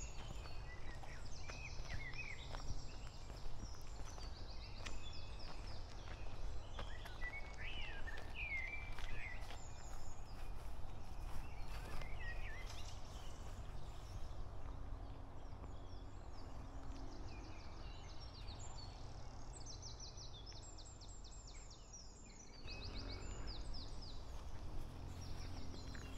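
Several birds singing and chirping, with short rising and falling calls and bursts of rapid high trills in the second half, over a steady low rumble.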